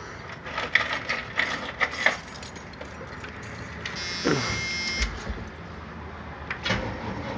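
Short bus engine being started: a few clicks, then about four seconds in a brief buzz of the starter cranking, and the engine catching about a second later and settling into a low, steady idle.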